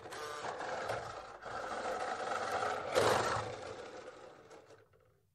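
Remote-controlled toy fire truck's small electric motor and gears whining and buzzing as its wheels spin freely with the truck upside down. It dips briefly, surges loudest about three seconds in, then winds down and stops near the end.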